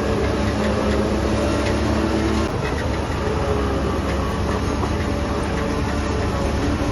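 Diesel engine of heavy earthmoving machinery running, a steady low rumble. One of its tones drops away about two and a half seconds in.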